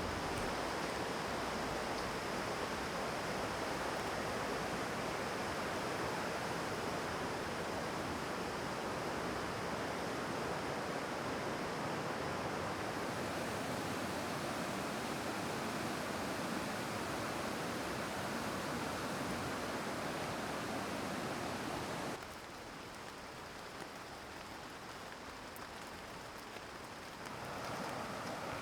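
Mountain stream water rushing as a steady noise. About three-quarters of the way through it cuts abruptly to a quieter flow, and near the end it switches again to a somewhat louder, brighter water sound.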